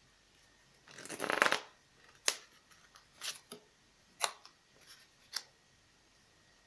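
A deck of tarot cards is handled: a quick run of rapid card flicks about a second in, like a shuffle, then about half a dozen single sharp snaps as cards are laid down one by one.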